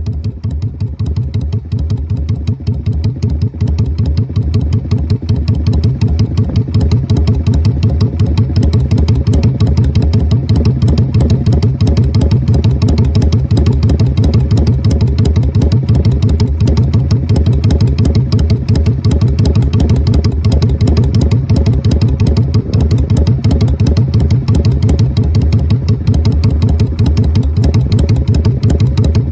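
Yamaha DragStar 400's V-twin idling through its muffler with an uneven, loping three-beat rhythm (sanbyoshi). The sound grows a little louder over the first few seconds, then holds steady.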